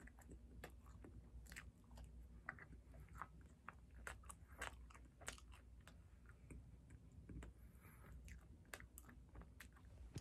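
Quiet, close-up mouth sounds of chewing: an irregular run of small wet clicks and smacks from the lips and tongue.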